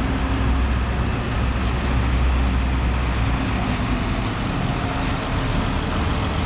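Crane's engine running steadily, with a strong low rumble.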